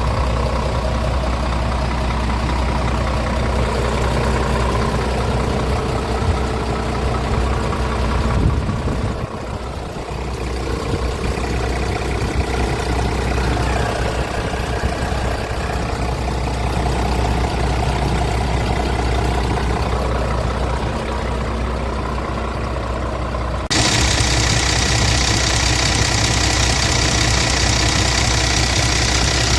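Scania R450 tractor unit's 13-litre six-cylinder diesel engine idling steadily. The sound shifts abruptly about eight seconds in and again near the end; after the second shift it is louder and brighter, with more mechanical clatter.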